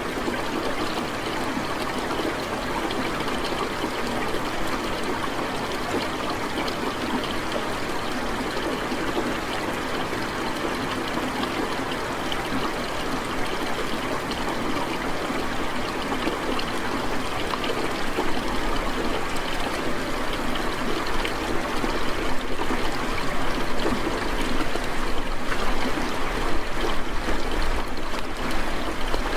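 Steady rush of water, growing a little louder and more uneven about two-thirds of the way through.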